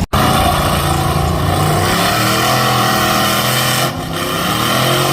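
Mud truck engine running hard at high revs, its pitch wavering up and down as it works through soft mud. The sound starts abruptly and dips briefly about four seconds in.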